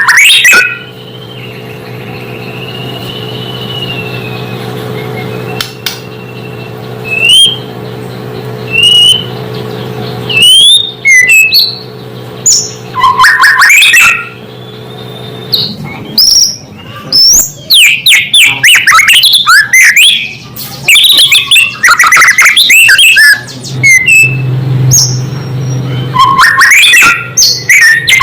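White-rumped shama (murai batu) singing: loud, clear whistled phrases spaced a second or two apart, then a fast, dense run of varied, rapidly changing notes in the second half. A steady low hum sits under the first part.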